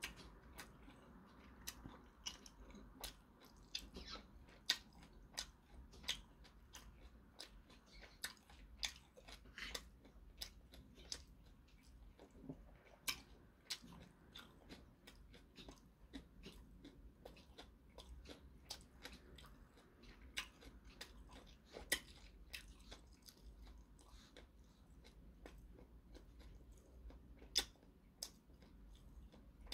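A person chewing food with the mouth closed, close to the microphone: soft wet clicks and smacks, a few a second, with short irregular gaps.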